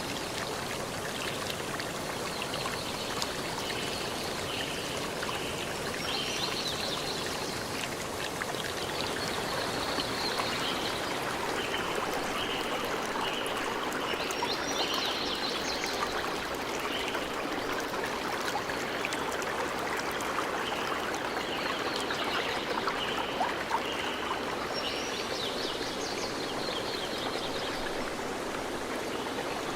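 Steady rushing of a stream, with high chirps repeating in short series every few seconds over it.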